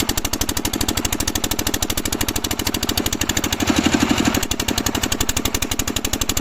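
Kirloskar 8 hp single-cylinder diesel pumpset engine running steadily with an even rapid beat of about ten firing pulses a second, briefly louder a little over halfway through.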